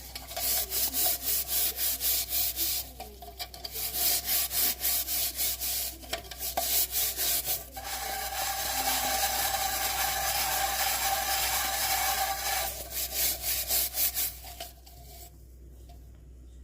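Rapid back-and-forth rubbing strokes on a hard surface, about four a second, like hand-sanding or scrubbing. About halfway through it turns into a few seconds of continuous hiss, then the strokes return and stop near the end.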